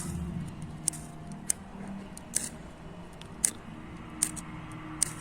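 A flint striker scraped again and again, giving six short, sharp rasps a little under a second apart, as someone tries to throw sparks onto campfire tinder.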